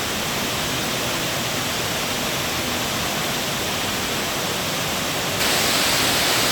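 Steady rush of an indoor 40-foot waterfall, water falling continuously. About five seconds in it gets louder and brighter.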